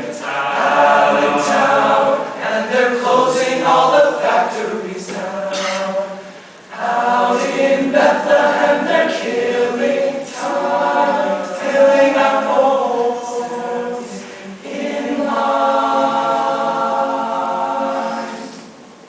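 High school show choir singing a cappella, phrase after phrase, with a short break about six seconds in and a fade near the end.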